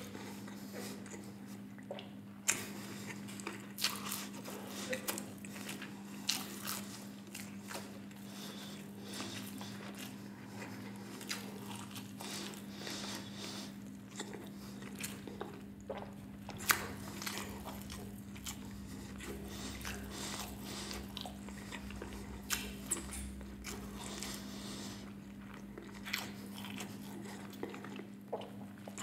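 Close-miked chewing of a Flamin' Hot Cheetos burger: irregular crunching and wet mouth clicks, with a steady low hum underneath.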